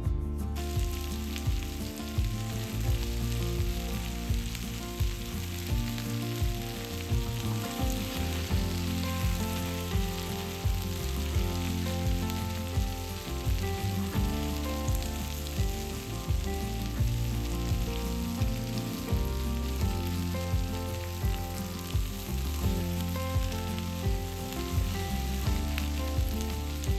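Food frying in a hot pan, a steady sizzle, under background music with a regular bass beat.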